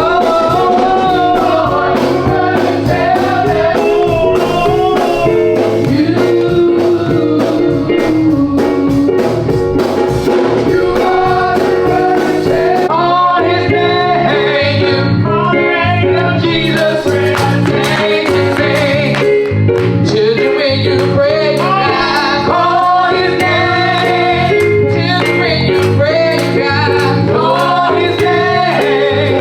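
Gospel music: voices singing over instruments with a steady beat and bass line.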